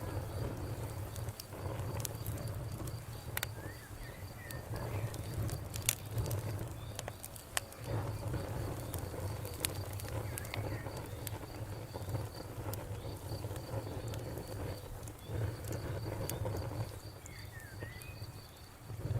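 Wood fire crackling, with scattered sharp snaps and pops over a steady low rumble. A steady insect trill, like crickets, runs behind.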